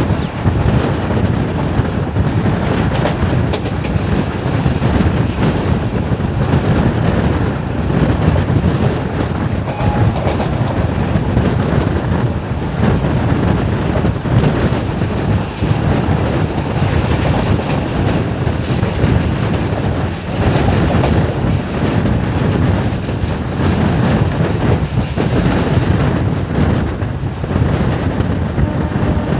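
Passenger train coach running at speed, heard from on board: a loud, steady rumble with the wheels clicking over rail joints.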